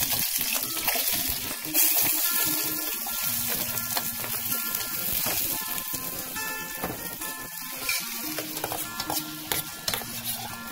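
Chopped red onion and tomato sizzling as they sauté in a hot camping pot. The sizzle starts sharply, grows louder about two seconds in as more food goes in, then settles into a steady fry.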